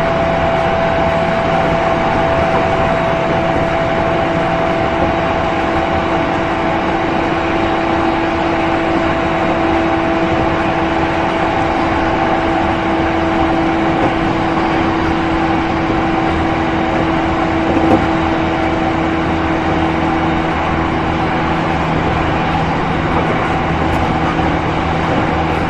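E231 series 1000 electric train running at a steady speed: wheel-and-rail rumble with the whine of its MT73 traction motors held as steady tones, which fade away near the end. A single short knock comes about 18 seconds in.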